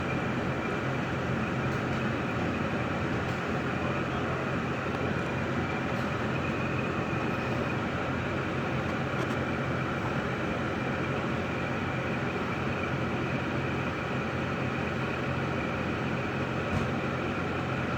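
2005 Cadillac STS's 3.6 L LY7 V6 engine idling steadily.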